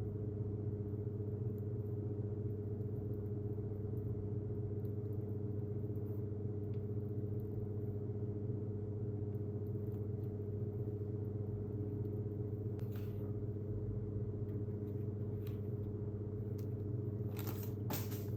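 A steady low mechanical hum, with a few short clicks or scrapes near the end.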